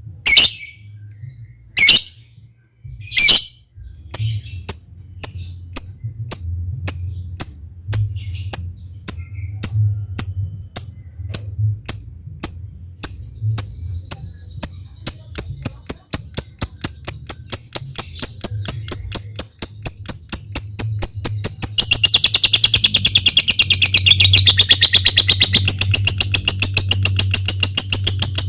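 Lovebird calling: sharp ticking notes, a second or more apart at first, speed up steadily into a long continuous chattering trill (the 'ngetik' leading into 'ngekek panjang' prized in a singing lovebird). A low steady hum runs underneath.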